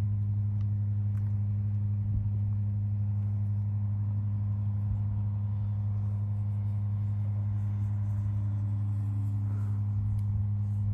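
A steady low hum with a few higher overtones.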